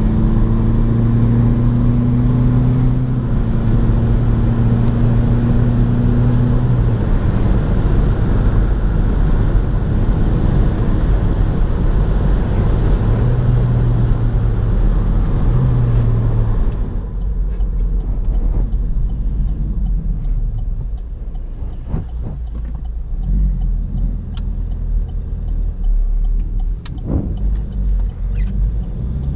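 Opel Astra 1.6 BiTurbo CDTI's twin-turbo four-cylinder diesel running on the move: a steady engine drone under a rushing road and wind noise. About 17 seconds in the rushing noise drops away, leaving a lower rumble with a few sharp knocks.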